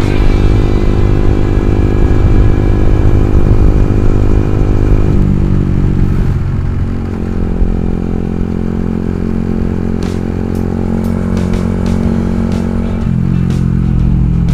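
Yamaha R15 V2's single-cylinder four-stroke engine running through an aftermarket racing exhaust while riding. It holds a steady note, then drops in pitch about five to seven seconds in and again near the end as the bike slows.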